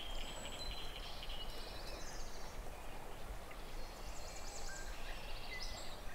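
Songbirds singing in the riverside woods: scattered short high trills and thin whistled notes over a steady low outdoor hiss.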